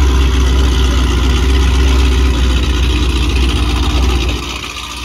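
Cammed Chevy Camaro engine idling loudly with a pulsing exhaust. It drops noticeably in loudness about four seconds in.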